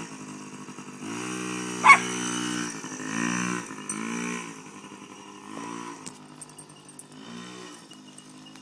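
A small dirt bike engine revving up and dropping back in repeated bursts as a first-time rider works the throttle unevenly. The bursts grow fainter later on. A dog barks once, sharply, about two seconds in.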